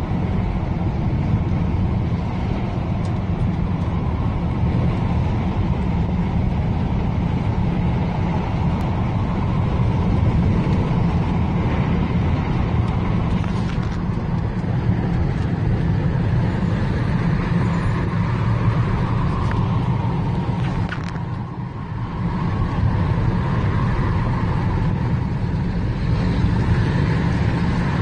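Storm-force wind and road traffic noise: a dense, steady low rumble with a hiss above it, easing briefly about three quarters of the way through.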